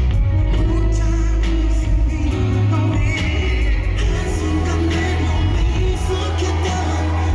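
Live K-pop music: a male singer over a backing track with heavy, steady bass, played loud through a concert sound system.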